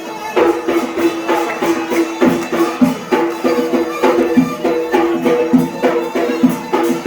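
Yemeni wedding mizmar, a double-pipe reed pipe, playing a loud nasal held tune over a quick beat of drums, coming in fuller about half a second in.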